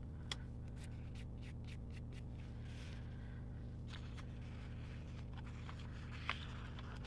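Faint rustling and small crackles and clicks of paper stickers and a sticker sheet being handled and peeled, over a steady low hum.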